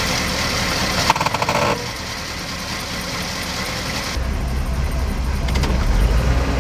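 Vintage car engine running as the car rolls on pavement, with a brief rattle about a second in. From about four seconds in, a deep steady engine rumble comes in.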